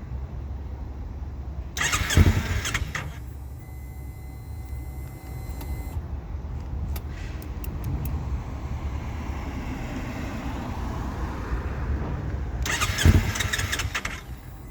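Kawasaki Ninja 300's electric starter cranking its parallel-twin engine in two short bursts, one about two seconds in and one near the end, without the engine catching: the bike won't start. A steady low rumble runs underneath.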